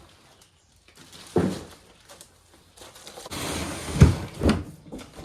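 Cardboard packaging and parts being handled: a knock, then scraping and rustling with two heavy thumps about four seconds in.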